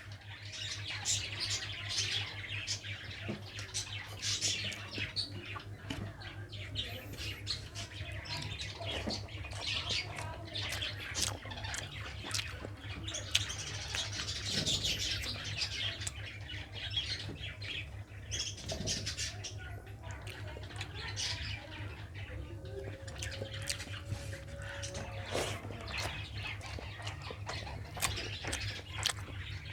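Close-up mouth sounds of a person eating rice and chital fish curry: chewing, lip smacks and many small wet clicks, over a steady low hum.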